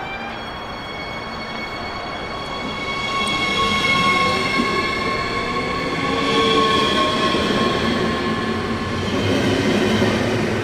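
Electric train running through a station platform, getting louder over the first four seconds, with a rumble and several steady high-pitched tones over it.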